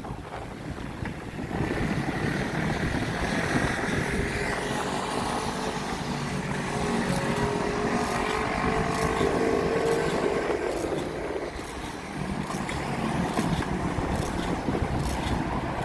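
Road traffic: motor vehicles passing, their engine sound swelling and fading over a steady road noise.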